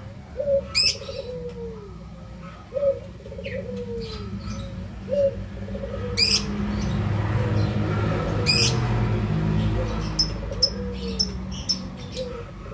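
A bird calling over and over: a short rolling note that falls in pitch, repeated about every second and a half. A few sharp, loud chirps sound over it, and a low rumble swells and fades in the middle.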